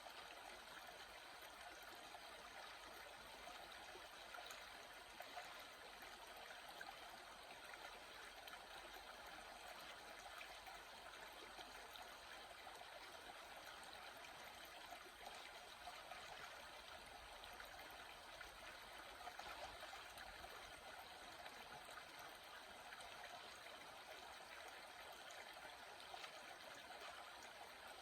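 Water stream flowing, a faint, steady, even rush of water.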